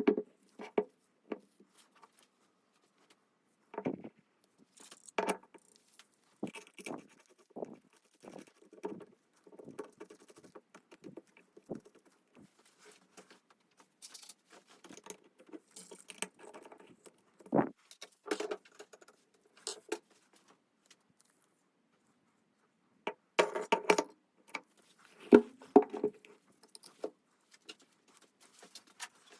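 Irregular clinks and knocks of small metal parts and tools being handled, with no machine running; the busiest, loudest clatter comes about three quarters of the way through.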